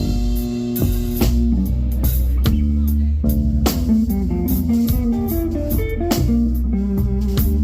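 A blues band playing: guitar over bass and a drum kit, with a steady beat.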